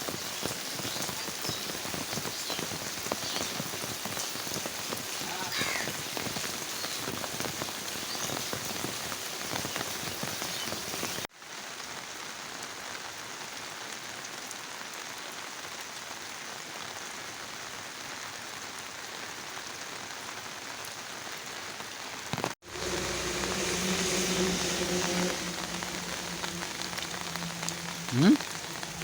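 Steady rain falling, an even hiss of drops, heard in three separate stretches that cut abruptly into one another. In the last stretch a low steady hum sits under the rain, and a brief rising tone sounds just before the end.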